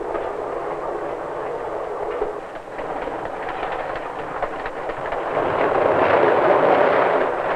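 Passenger train running along the rails, a steady rumble that swells louder about five seconds in.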